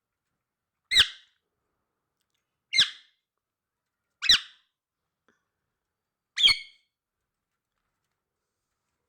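Pet parrot giving four short, sharp squawks, one every one and a half to two seconds, each call dropping slightly in pitch.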